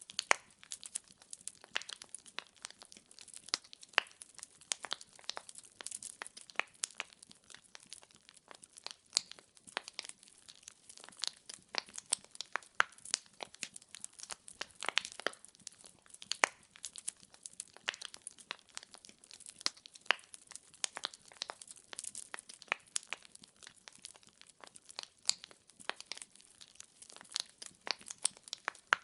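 Burning firewood crackling, with irregular sharp pops coming several times a second.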